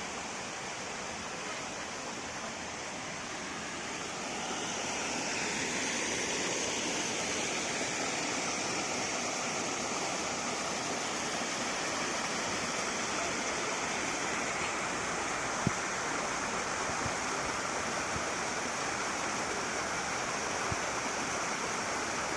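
Steady rush of flowing water, getting louder about four seconds in.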